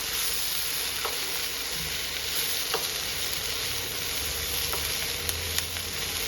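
Vegetables sizzling and frying in a hot pan, a steady hiss with a few light clicks.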